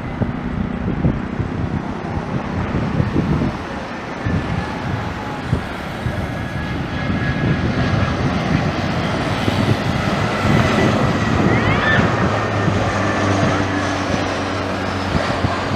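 Jet airliner engines running through a landing: a steady rush with a thin high whine, growing louder toward the middle.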